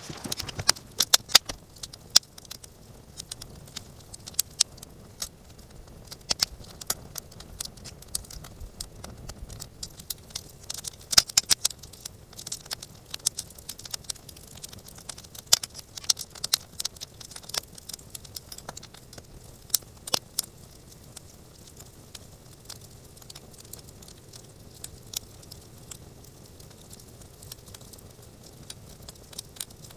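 Wood campfire crackling, with many sharp pops and snaps that come thickly for the first twenty seconds or so and more sparsely after.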